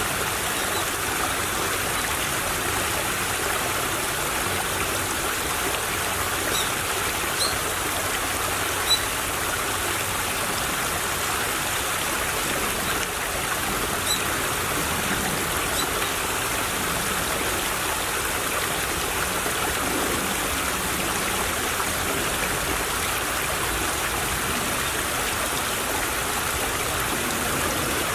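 A small stream flowing with a steady trickle of water.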